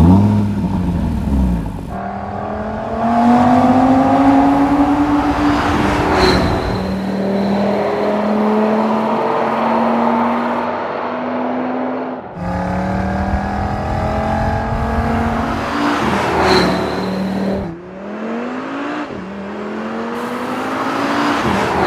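Audi RS Q3's 2.5-litre TFSI five-cylinder engine and exhaust under hard acceleration, the engine note rising and falling again and again as it revs.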